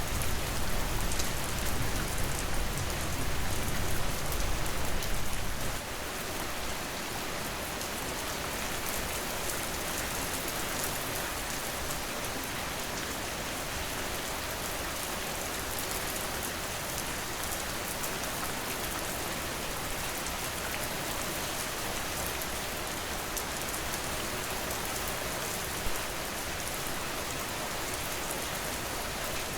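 Steady heavy rain: an even hiss of drops falling on a surface. A low rumble underneath stops abruptly about six seconds in, and a single sharp drop or tap stands out near the end.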